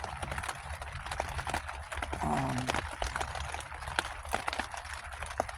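Rain drops tapping irregularly on a tent, many sharp ticks at uneven intervals over a steady low rumble.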